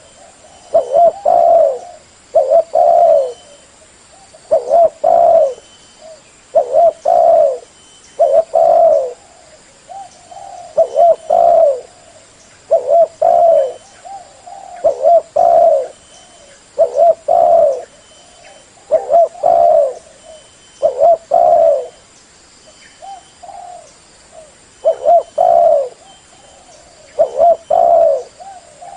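Spotted dove cooing over and over, a loud burst of coos about every two seconds, with a short gap here and there.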